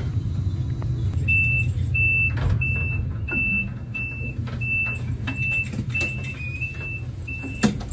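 High-speed train door-closing warning beeps: a run of short high beeps, one tone, about 0.6 s apart, over the steady low hum of the stationary train, with a thump near the end as the doors shut.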